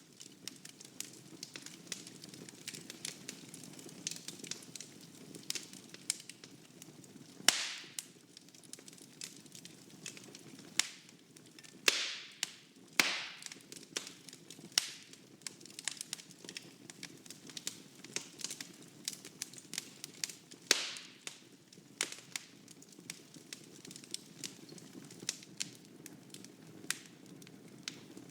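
Wood fire burning in a fireplace: a steady low rush of flames under constant small crackles, with a few sharp loud pops from the burning logs.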